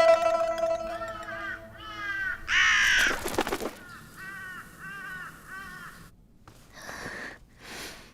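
Crows cawing in a series of short, repeated calls, one loud harsh caw about three seconds in, over the last plucked zither note dying away. Two brief hissing sounds follow near the end.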